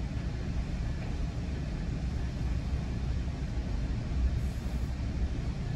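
GO Transit bilevel passenger coach running along the track, heard from inside: a steady low rumble with no sudden events.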